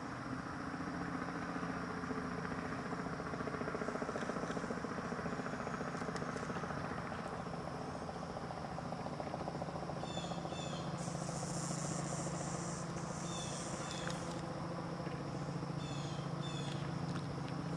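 Steady outdoor background with a low rumble and insects buzzing, broken by short high bird chirps in two brief runs, about ten seconds in and again near the end, with a higher buzzing stretch between them.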